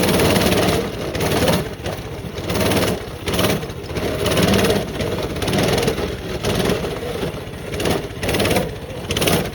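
Small off-road engine running under load on a rough trail, its note surging and dropping roughly once a second as the throttle works. It is a weak engine struggling on a climb, which the rider calls gutless.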